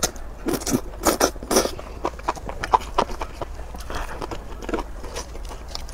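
Close-miked eating sounds: a person chewing a wet, spicy, stringy mouthful, with irregular clicks and smacks of the mouth.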